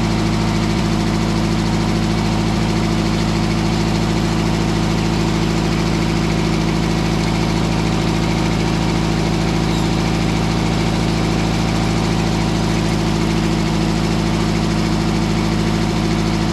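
Engine of a Mobile Dimension circular sawmill running steadily at constant speed, with a low, even hum that does not change.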